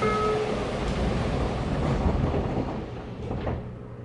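JR Kyushu 817 series electric train running, with a steady low rumble of wheels on the track heard inside the car. A couple of faint knocks come about three seconds in, and the rumble eases off near the end.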